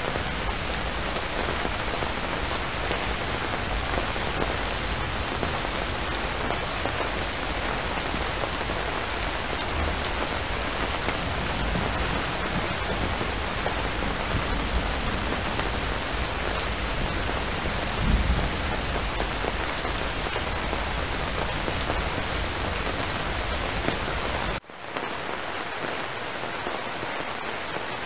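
Steady rainfall, an even hiss of many drops, with a brief low rumble about two-thirds of the way through. Near the end the sound drops out for an instant and comes back lighter, with less low rumble.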